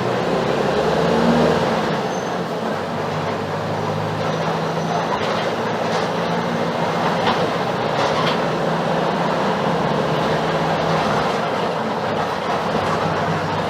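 Mercedes-Benz OF-1721 BlueTec 5 bus's front-mounted diesel engine running steadily under way, a low drone with road noise and a few light knocks.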